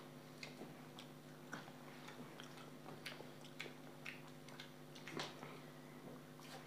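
Faint chewing and small wet mouth clicks of a person eating rice and omelette by hand, with a sip of water from a glass near the end. A low steady hum runs underneath.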